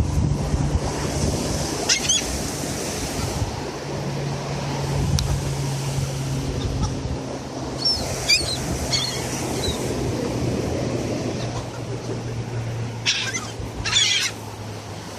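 Seagulls giving short, high calls in three brief groups over steady surf and wind noise, with a low steady hum underneath.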